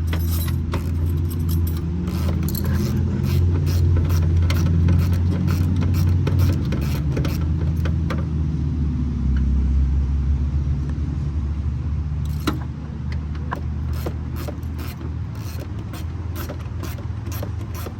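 A car engine running with a steady low hum, with scattered clicks and light rattles over it.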